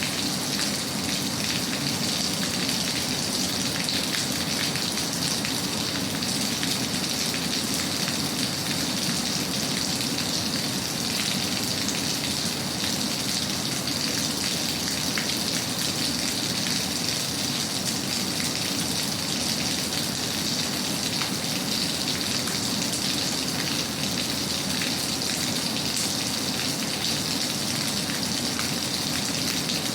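Steady rain falling: an even, unbroken hiss with scattered drop ticks and a low rumble beneath.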